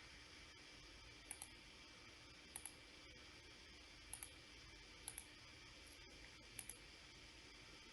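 Computer mouse clicking: five quick pairs of sharp clicks spaced a second or so apart, over faint steady hiss.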